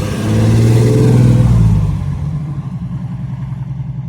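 A car engine passing close by, growing louder in the first half-second, loudest for about a second and a half, then fading to a steadier, quieter running.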